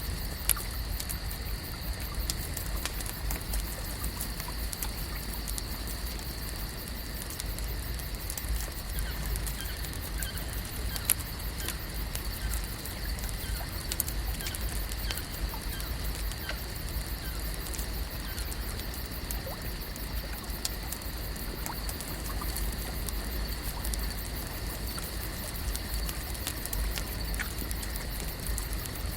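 Lake ambience: a steady bed of water sound with a constant high hum and many small scattered clicks.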